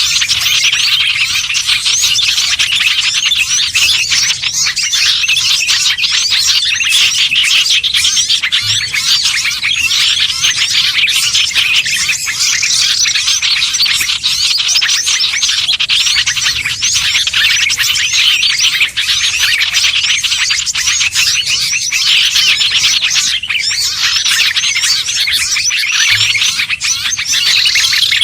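Dense, unbroken chorus of many small songbirds chirping and twittering rapidly over one another: a bird-lure recording of the noisy kind used to draw small birds such as bulbuls, sunbirds and prinias.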